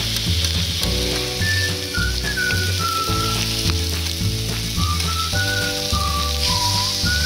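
Pork belly sizzling and frying on a seasoned cast-iron cauldron-lid griddle as a steady hiss. Background music plays over it, with a bass line changing in even steps and a melody of short held notes.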